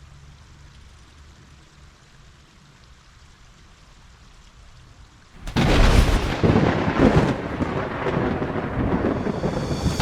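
Faint hiss, then about halfway through a sudden loud rumble that carries on as a steady rushing noise, of the thunder-and-rain kind.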